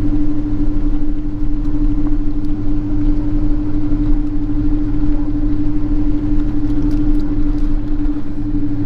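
Steady hum and low rumble inside the cabin of a Boeing 777-200 airliner on the ground before takeoff, with one strong steady drone tone running through it.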